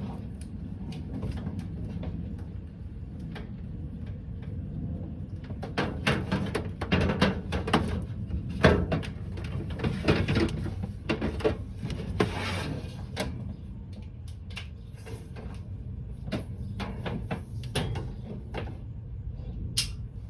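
Irregular clicks, knocks and rattles of a window air conditioner being handled and set up, busiest in the middle, over a steady low hum.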